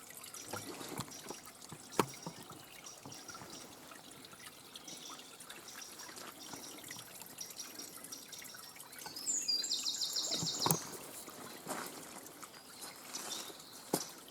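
Faint, scattered drips and clicks, with distant birdsong of repeated high notes. A little over nine seconds in, a bird gives a loud, rapid trill of high notes lasting about a second.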